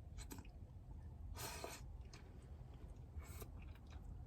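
Faint sounds of someone eating hot udon: a few short slurps, the clearest about a second and a half in, over a low steady rumble.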